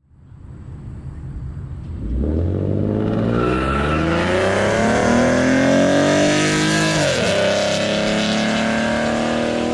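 A car accelerating hard: the engine note climbs steadily from about two seconds in, drops abruptly at an upshift about seven seconds in, then climbs again.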